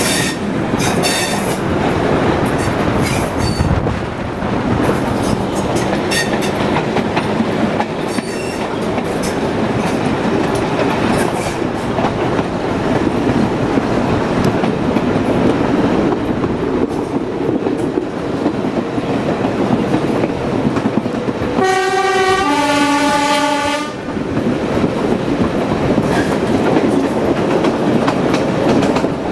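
Diesel train running along the track: a steady rumble with wheels clicking over the rails, and sharp clicks in the first couple of seconds. About 22 seconds in, the horn sounds for about two seconds, stepping between two pitches.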